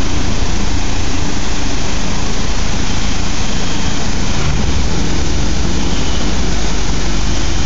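Waterfall pouring close by: a loud, steady rush of falling water with a deep rumble underneath.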